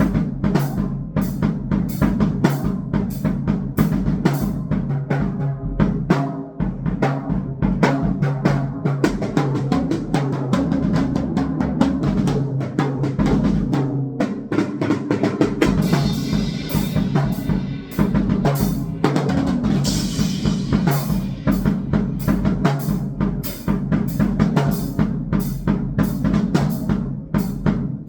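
Electronic noise drumming: a fast, dense stream of drum hits over a steady low hum, with a stretch of hiss in the upper range a little past the middle.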